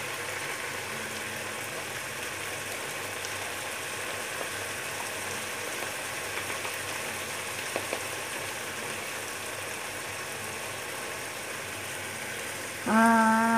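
Chicken pieces with onion and tomato frying in a pot on the stove, a steady sizzle.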